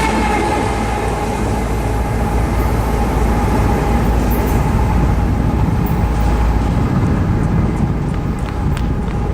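CN coal train's freight cars rolling past: a steady rumble of steel wheels on rail, with a faint steady wheel squeal running over it.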